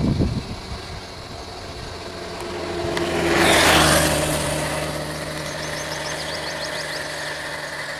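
A vehicle engine idling, with a rush of noise that swells to a peak about three and a half seconds in and then fades, leaving a steady engine hum.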